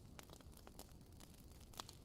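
Wood fire crackling faintly: scattered small snaps and pops, one a little louder near the end.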